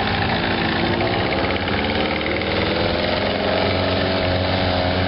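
The motor of a homemade 10-foot power catamaran running steadily under way, its pitch rising slightly through the middle.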